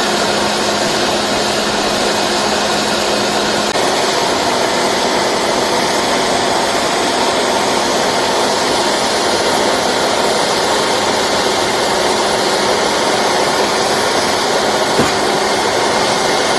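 Well-drilling truck's engine running steadily, a loud even drone with a faint steady hum in it during the first few seconds.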